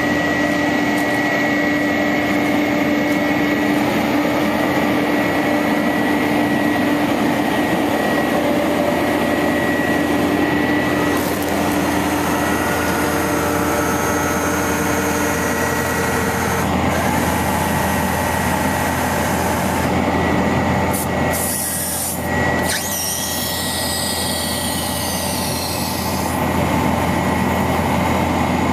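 A 1999 International 4900 bucket truck running, a steady mechanical drone with a held whine over it. The sound briefly breaks about three-quarters of the way through, followed by faint high squealing glides.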